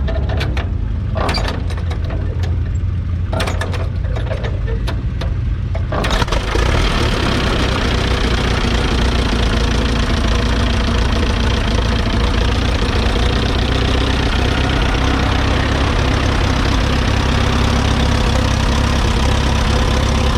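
1938 Case Model C's 4.3-litre four-cylinder petrol engine running steadily, with scattered sharp clicks over the first few seconds. About six seconds in, the sound turns suddenly louder and noisier and stays that way.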